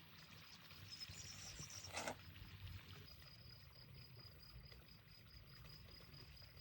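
Near silence: faint outdoor ambience with a steady, high-pitched pulsing tone and a single sharp click about two seconds in.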